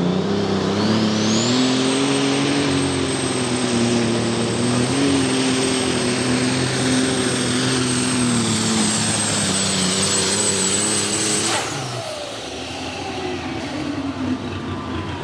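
Super Stock pulling tractor's turbocharged diesel engine running at full throttle under the load of the weight-transfer sled, with a high turbo whine that rises in the first two seconds and then holds. About twelve seconds in the throttle is cut suddenly, ending the pull, and the engine drops to a lower, quieter run.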